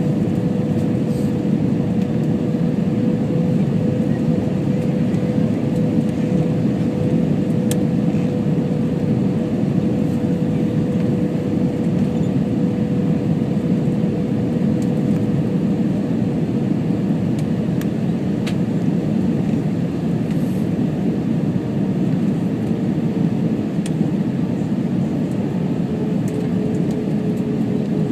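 Steady cabin noise inside an Airbus A321 in flight: a dense drone of engines and airflow, with a steady hum that drops slightly in pitch near the end.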